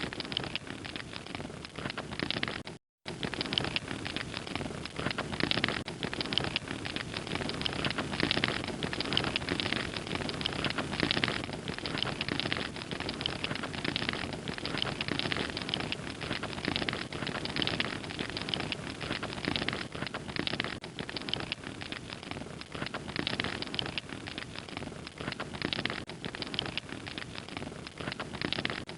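Wood fire crackling steadily, a dense stream of small pops and snaps. The sound cuts out completely for a moment about three seconds in.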